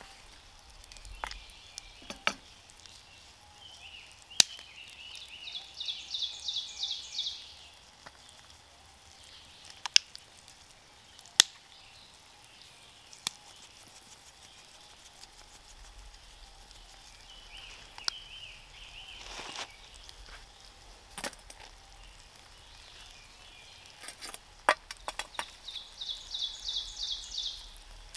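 A bird singing a fast, high-pitched trill twice, about twenty seconds apart, among scattered sharp clicks and pops.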